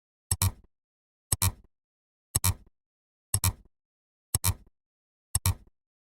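A short two-part click or plop sound effect, repeated six times about once a second with silence between.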